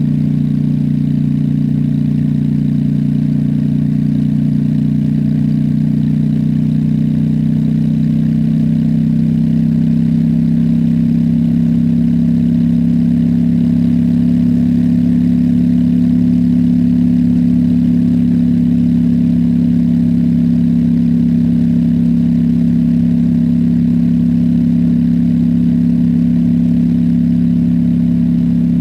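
Honda Shadow V-twin motorcycle engine running steadily under way, its pitch rising slightly about ten seconds in and then holding.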